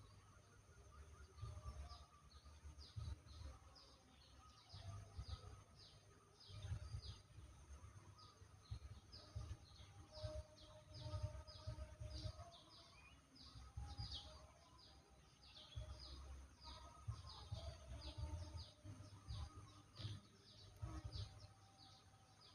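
Javan myna nestlings begging at the nest: a rapid, unbroken series of short, high, downward chirps, about two to three a second.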